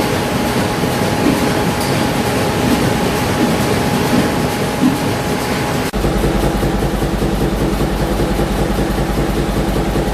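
Large stationary engines running, a continuous mechanical clatter. About six seconds in it changes abruptly to a steadier, deeper rhythmic engine beat with a strong low hum.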